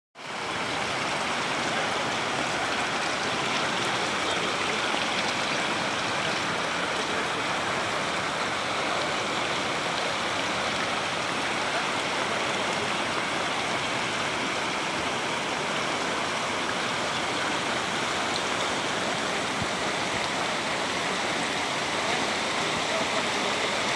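A river in full flood rushing steadily: the constant roar of fast, swollen floodwater from a small stream turned into a torrent.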